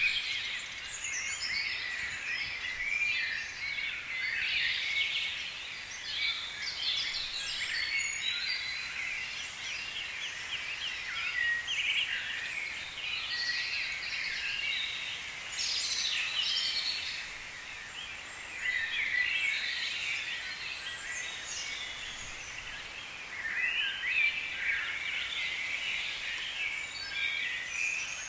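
Many small birds chirping and twittering at once, a dense chorus of overlapping high calls that thins briefly a couple of times.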